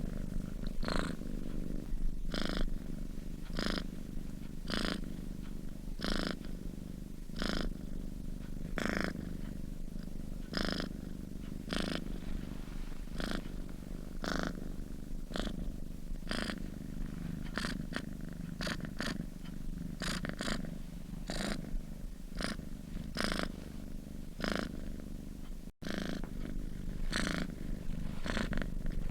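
Domestic cat purring in its sleep: a steady low purr that swells and eases in a breathing rhythm, about one in-and-out cycle every second and a half. It cuts out for an instant near the end.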